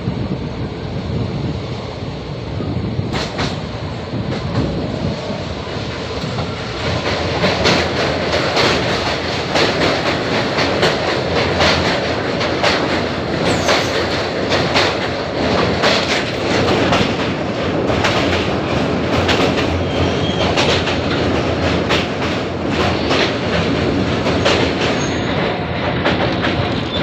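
Indian Railways express coaches running at speed, heard from the open doorway: a rush of wind and running noise, then from a few seconds in a louder, busier rattle and clatter of wheels on the rails as the train crosses a steel truss bridge.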